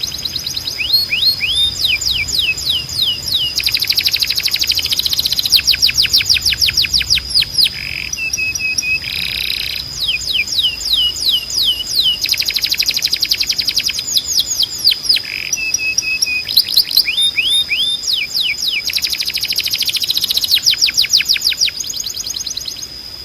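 Domestic canary singing a loud, fast song built of rapid trills, each made of quickly repeated falling notes, one phrase after another. Twice a short, flat, lower note breaks in, and a steady high whistle holds underneath.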